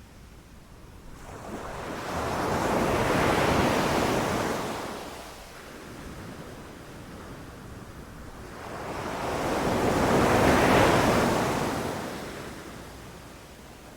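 Ocean waves breaking on a beach: two swells of surf rise and fall, peaking about three seconds in and again about ten seconds in, with a quieter lull between.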